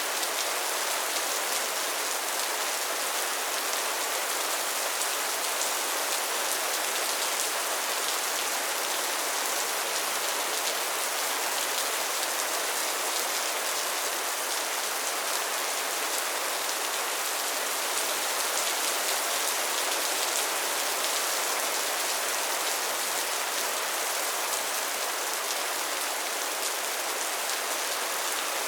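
Steady rain falling, a dense, even patter of drops on a surface, with no thunder.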